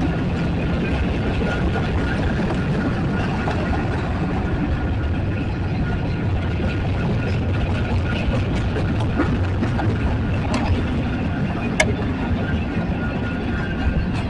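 Steady low rumble of a heavy engine, with a faint steady whine above it and a single sharp click about twelve seconds in.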